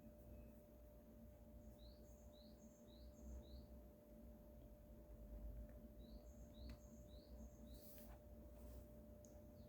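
Near silence: room tone with a steady faint hum, and faint high bird chirps in two runs of about four.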